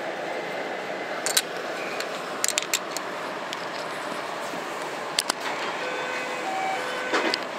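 Chiki 5500 rail-transport flat wagons of a freight train rolling past at close range: a steady rumble of wheels on rail, broken by a few sharp metallic clanks. Near the end there is a brief faint squeal.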